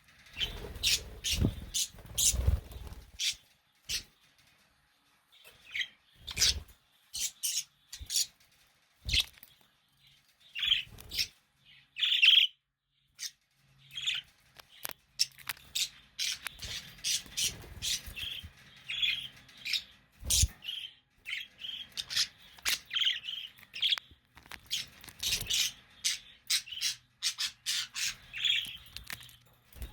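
Budgerigars (parakeets) chirping and warbling in quick strings of short, high chirps, with several sharp knocks among them.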